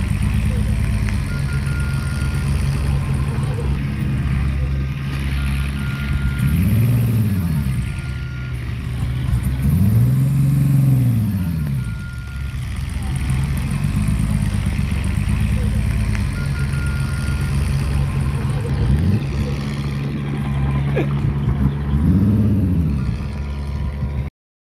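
Diesel engine of small earthmoving equipment running steadily under load, revving up and back down three times, then cutting off abruptly near the end.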